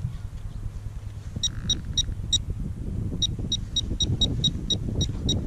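Teknetics Tek-Point pulse-induction pinpointer beeping in short, high-pitched pulses, about four a second with a brief pause, as it is worked close to a buried coin in a dig hole, over a low rumbling handling noise.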